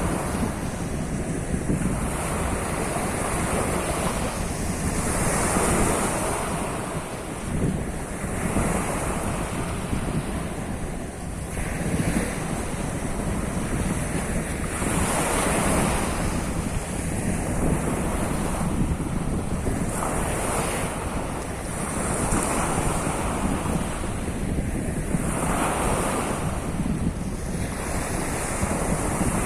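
Sea surf: waves washing onto the shore, swelling and falling back every few seconds, with a steady low rumble of wind buffeting the microphone.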